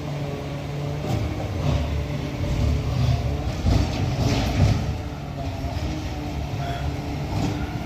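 A Peterbilt 520 McNeilus ZR garbage truck's engine running steadily, with a few brief knocks about halfway through.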